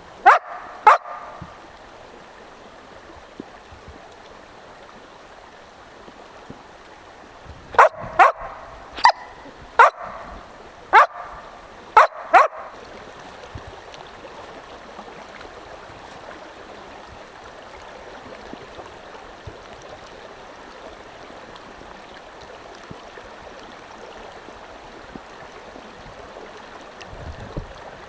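Large mixed-breed dog barking: two barks at the start, then a quick run of about seven more, over a stream running steadily throughout.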